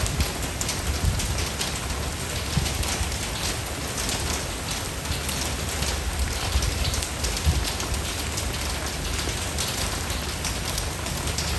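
Steady rain falling and pattering on a surface, many separate drops heard, with a low rumble underneath.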